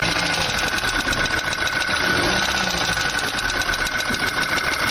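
Third-generation VW/Audi EA888 four-cylinder turbo petrol engine running with a rapid ticking knock and a steady high whine, the abnormal noise of a fractured piston ring inside the engine.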